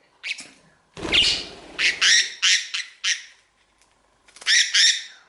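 A pet budgie squawking in a rapid series of short, harsh, high calls while it is held in the hand for wing clipping. A brief low rumble of handling comes about a second in.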